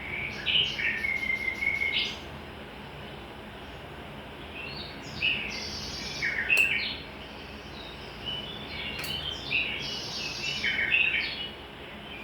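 Songbirds chirping and singing in short bursts of varied, quick notes, with a pause in the middle, and two sharp clicks partway through.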